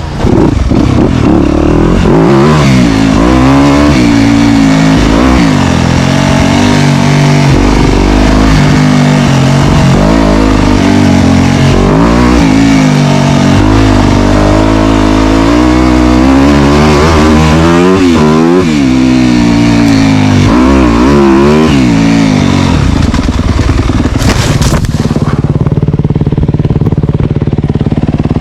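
Dirt bike engine ridden hard, revving up and dropping back again and again as the throttle opens and closes. Over the last few seconds the engine sound holds steadier.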